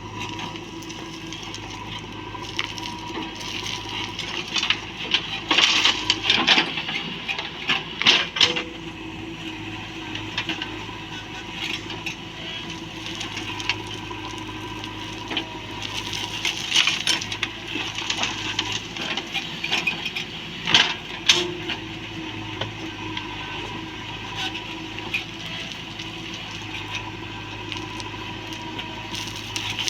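Backhoe loader's diesel engine running steadily, with bursts of clattering and crunching from the bucket handling loose material, loudest about five to nine seconds in and again around sixteen to twenty-one seconds in.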